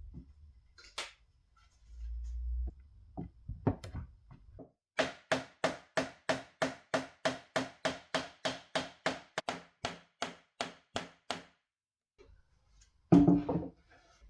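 A hammer or mallet striking wood: a few loose knocks, then about twenty even blows at roughly three a second, then one louder knock near the end.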